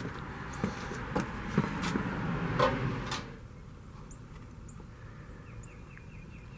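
Handling noises: rustling and several sharp clicks and knocks for about three seconds, then they stop. The sound is a paint filter and cup being handled while drained engine oil is checked for metal flakes.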